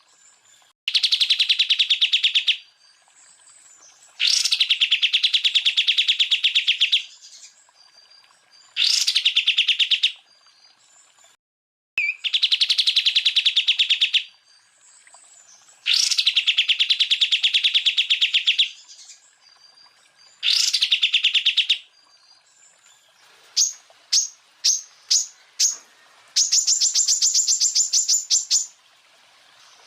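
Cucak ijo (green leafbird) song: repeated bursts of very rapid trilled notes, each one to three seconds long, with short pauses between. Near the end comes a run of short sharp chirps, then a higher, faster trill.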